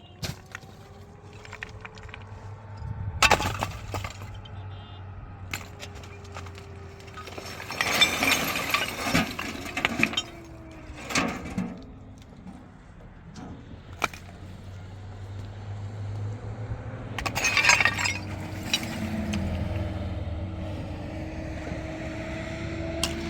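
Tractor engine running, its pitch rising and falling with the throttle. Loud crashing and clattering bursts come about three seconds in, over a stretch around eight to ten seconds, and again near eighteen seconds.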